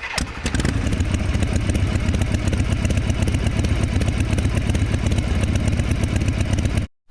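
Motorcycle engine running steadily with a fast even pulse, cutting off abruptly near the end.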